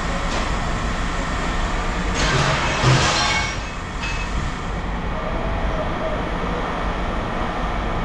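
Heavy machinery running steadily with a deep rumble, with a loud scrape and screech of metal on metal between about two and four seconds in.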